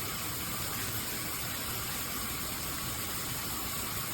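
Water running steadily from a shower head, an even hiss of spray.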